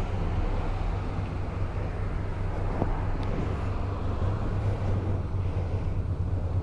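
Triumph Bonneville motorcycle's parallel-twin engine running steadily under an even rush of wind noise.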